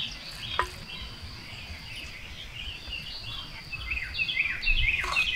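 Small birds chirping over and over in quick, high notes, busy at first, thinning out in the middle and picking up again near the end, over a thin steady high whine.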